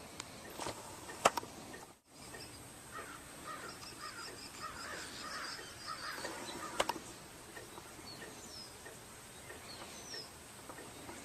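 Birds calling in runs of short repeated notes, with a few gliding calls later on. Two sharp knocks stand out, the louder about a second in and another near seven seconds, and the sound drops out briefly about two seconds in.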